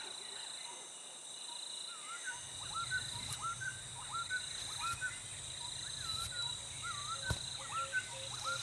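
Forest ambience: insects trilling steadily at a high pitch while a bird repeats a short, hooked call about twice a second. A low hum comes in about two seconds in, and there is a single sharp click near the end.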